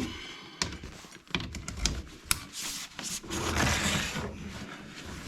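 Handling noise: a quick run of light clicks and rattles, then a stretch of rubbing.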